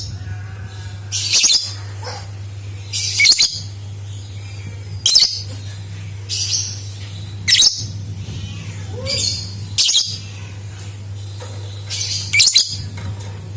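Lovebird giving short, shrill chirping bursts, one every one to two seconds, over a steady low hum.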